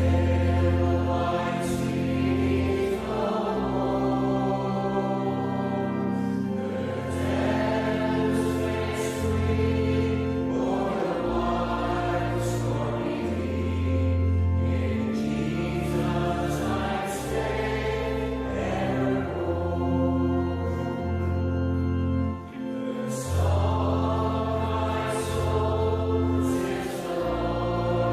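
Choir singing slow, sustained gospel music over held bass notes.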